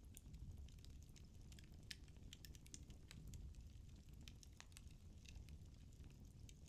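Firewood burning in a fireplace, crackling softly: irregular small snaps and pops over a low steady rumble.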